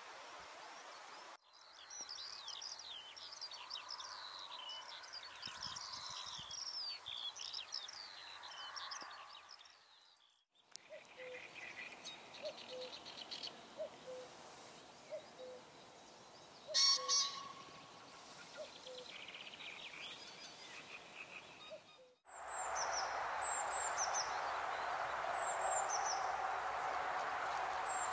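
Wild birds calling, in stretches broken by abrupt cuts: first a dense chorus of high chirping song, then a run of short low calls about once a second with one sharp sound about two thirds of the way in, then a steady hiss with a few high, falling chirps.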